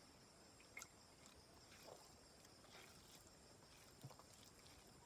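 Near silence: faint, scattered wet clicks of chewing and fingers working rice and curry, a few times about a second apart, over a faint steady hiss.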